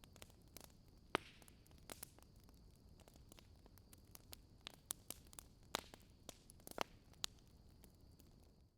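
Log fire crackling softly, with irregular sharp pops and snaps over a faint hiss and a thin steady high whine. The sound cuts out abruptly at the very end.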